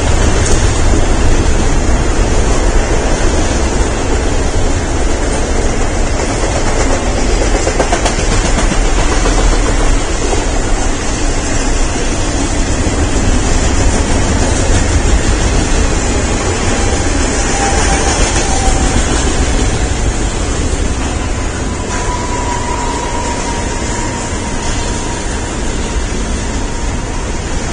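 Double-stack intermodal container freight train rolling past at close range: a steady, loud rumble and rattle of wheels on rails. A faint thin squeal rises out of the noise twice in the second half.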